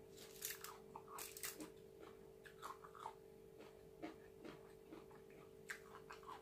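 Close chewing and mouth sounds of a person eating, with faint crunches and smacks, the busiest stretch about half a second to a second and a half in. A faint steady hum lies underneath.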